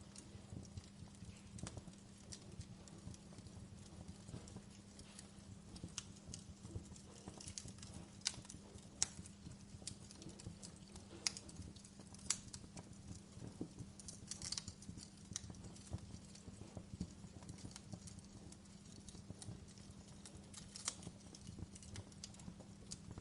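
Fire crackling: irregular sharp pops and snaps, a few louder than the rest, over a steady low hum, with a brief hiss about fourteen seconds in.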